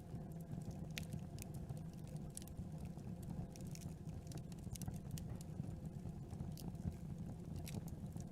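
Campfire burning: a steady low rush of flame with irregular, scattered sharp crackles and pops from the burning wood.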